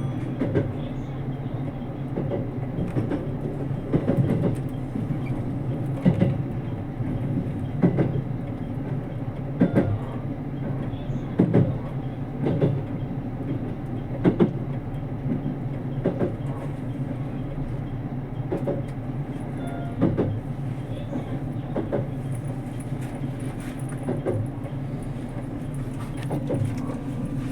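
JR Kyushu 787 series express train running on the line, heard from inside the passenger car: a steady low rumble with the wheels clicking over rail joints about every two seconds.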